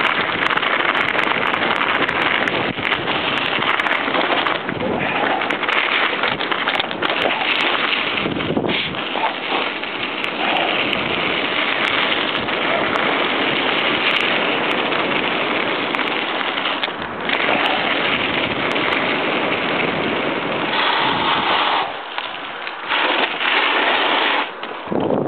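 Mountain bike ridden on a dirt trail: a loud, steady rush of wind on the microphone mixed with crunching tyres and the rattle of the bike, broken by brief dips.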